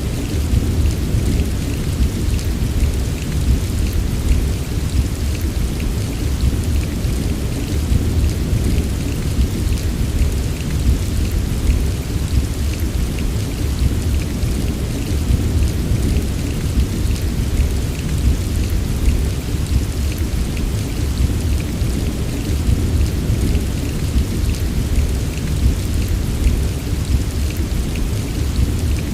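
Steady heavy rain, a continuous wash of noise with a deep, even rumble underneath and many small drop ticks scattered through it.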